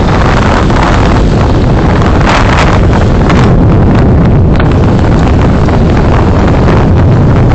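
Loud, steady rumble of a car driving, with road and wind noise buffeting the dash camera's microphone and a brief louder rush about two and a half seconds in.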